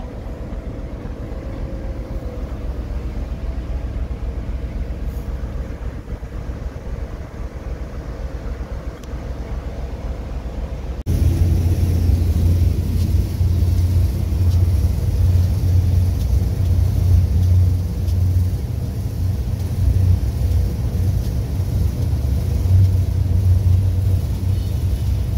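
Rumble of a train moving slowly, heard from on board. About eleven seconds in, it cuts abruptly to a louder, deeper, unevenly wavering rumble heard from the locomotive cab.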